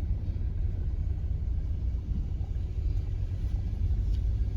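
Honda Freed minivan driving, heard from inside the cabin as a steady low road and engine rumble.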